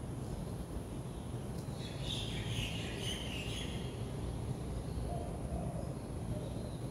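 Birds chirping in a short flurry about two seconds in, over a steady low outdoor rumble.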